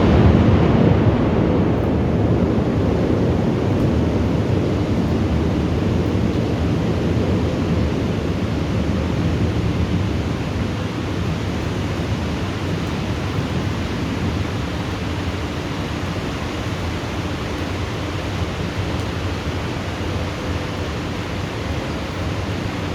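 Thunderstorm: a rumble of thunder that breaks just before and fades away over the first several seconds, over a steady hiss of heavy rain.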